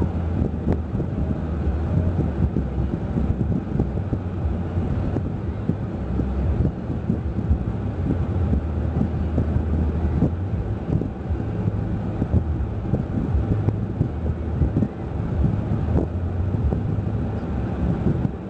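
Steady low rumble of a moving car's road and engine noise with wind buffeting, picked up by a dash camera microphone; it cuts off suddenly at the end.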